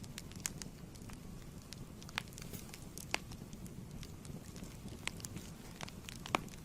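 Wood fire in a fireplace crackling, with sharp irregular pops over a steady low rumble of the flames. One pop near the end is louder than the rest.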